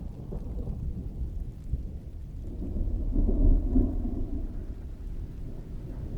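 Thunder rolling in the distance over steady rain: a deep rumble swells about halfway through and dies away a couple of seconds later.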